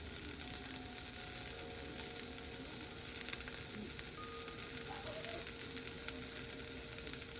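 Chopped onions and garlic sautéing in hot oil in a pan: a steady sizzle with fine crackles.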